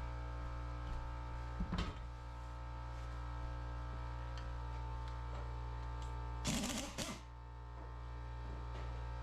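Steady shop hum with a short knock about two seconds in and a louder clatter lasting about half a second near six and a half seconds in: tools and parts being handled while stripping down a Ford 460 big-block engine.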